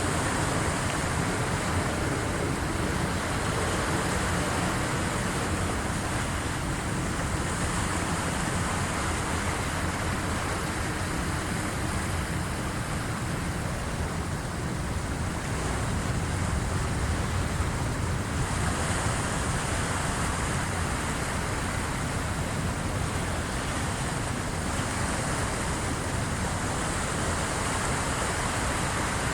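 Waves of the incoming tide washing on the shore: a continuous noisy wash that swells and eases every several seconds, with a steady low rumble underneath.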